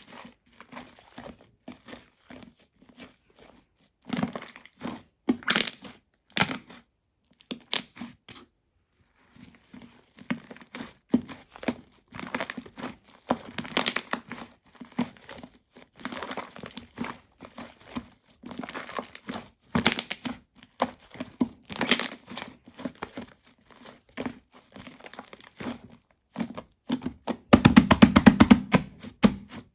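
Fluffy shaving-foam slime being squished and stretched by hand, making irregular sticky crackles and pops. Near the end comes a louder, quick run of rapid crackling.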